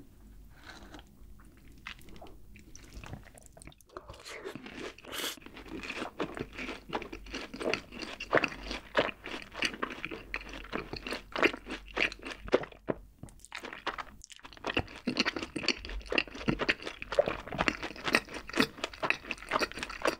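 Close-miked chewing of a fried cheese ball dipped in cheese sauce. It is faint at first, then turns into dense, wet, irregular chewing about four seconds in, with a short lull about two-thirds of the way through.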